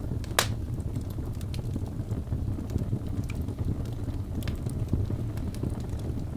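Wood fire burning in a fireplace: a steady low roar of flames with scattered crackles and pops from the burning logs, one loud pop about half a second in.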